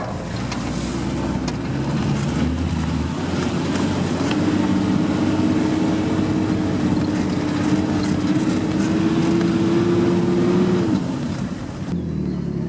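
Off-road vehicle engine running under load, holding a steady, slightly rising pitch for several seconds before dropping off about eleven seconds in.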